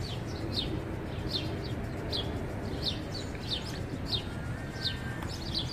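A small bird chirping over and over: short, high, falling chirps about two a second, over a steady low background rumble.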